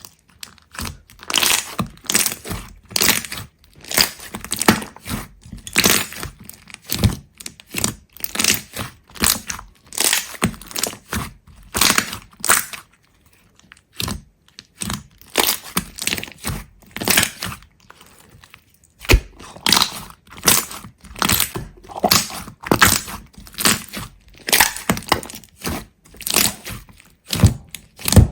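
Rapid, irregular crisp cracks and crunches, several a second, as something brittle is broken or crushed close up, with two brief lulls around the middle.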